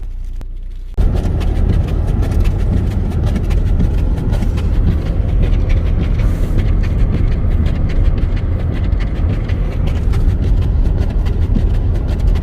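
Wind buffeting the microphone in a snowstorm: a loud, steady low rumble with crackle that starts suddenly about a second in.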